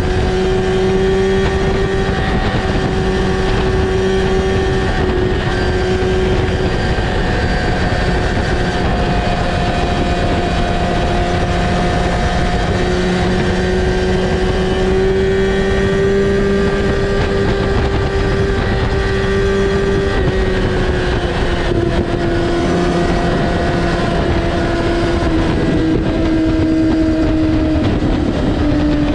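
Kawasaki ZX-6R's inline-four engine running through an Akrapovic exhaust with the dB killer removed and the butterfly valve disabled, giving an open, unbaffled exhaust note. It holds steady revs, its pitch drifting gently up and down, and eases a little lower near the end.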